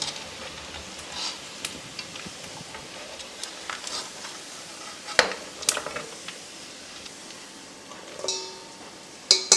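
Chicken pieces frying in hot oil with a steady sizzle, while a metal spoon knocks and scrapes against the pan a handful of times as the browned pieces are lifted out.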